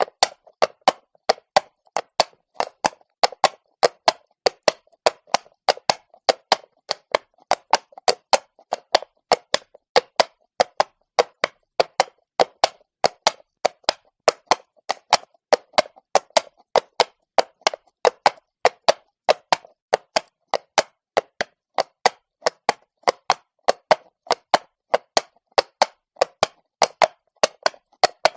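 A horse walking on cobblestones, its shod hooves striking the stone in a steady, even clip-clop of sharp knocks, about two to three a second.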